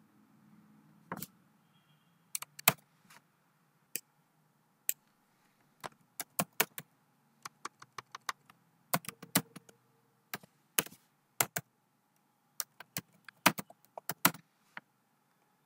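Computer keyboard typing and mouse clicks: irregular sharp clicks, some single and some in quick clusters.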